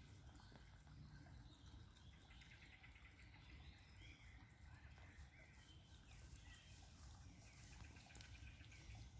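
Near silence, with faint scattered bird chirps over a low steady background rumble.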